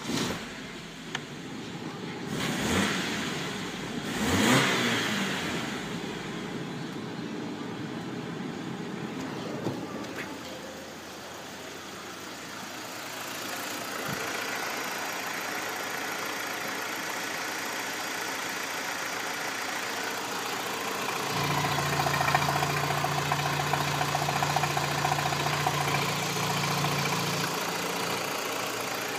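BMW N42B20A 2.0-litre four-cylinder petrol engine in an E46, blipped twice a few seconds in, then idling steadily. A steady low hum comes in for about six seconds near the end.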